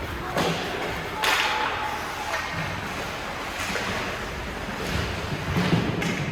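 Ice hockey play on the rink: skate blades scraping the ice, with a sharp hissing scrape about a second in, amid low knocks of sticks, puck and boards.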